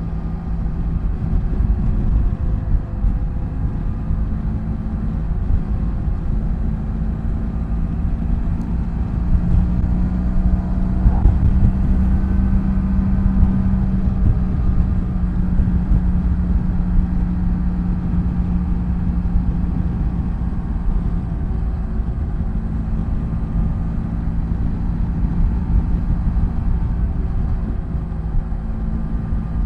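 BMW F800GS parallel-twin motorcycle engine running steadily while riding on the highway, its note rising a little about ten seconds in and then easing back down.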